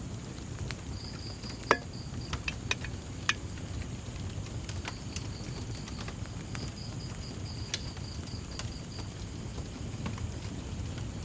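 Wood fire crackling with scattered sharp pops, the loudest about two seconds in, over a low steady rumble. Crickets chirp in fast, evenly pulsed trains behind it.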